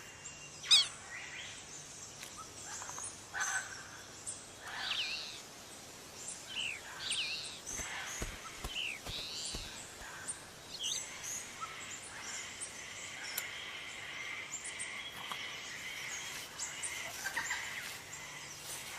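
Nature ambience with bird calls: a sharp snap under a second in, then a string of short arching chirps over the first half, followed by a steadier high hum.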